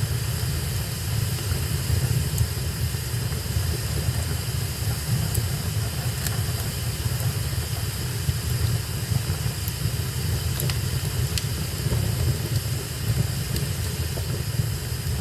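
Fire burning in a fireplace: a steady low rumble of the flames with a few sharp crackles scattered through.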